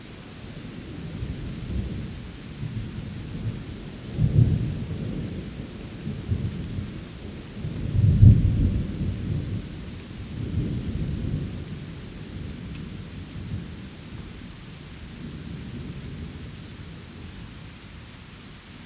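Steady rain with rolling thunder: a long low rumble that builds from about a second in, swells twice (near 4 s and most strongly around 8 s), then fades away over the rain hiss.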